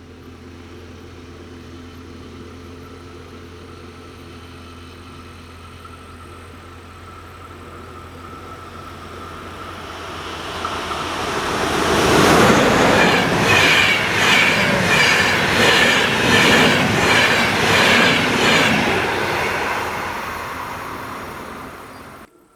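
A train approaches, growing louder over about ten seconds, then passes close by with a rhythmic clatter of wheels on the rails. It fades away and cuts off suddenly near the end.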